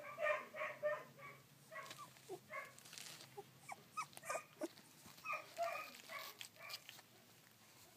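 Sixteen-day-old rough collie puppies whimpering and squeaking in a run of short, high-pitched cries.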